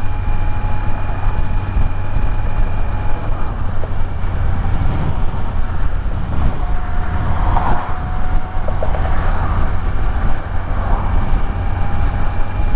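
Kawasaki Z900's inline-four engine running steadily at cruising speed, with road noise. The engine eases off slightly about halfway through, then picks back up.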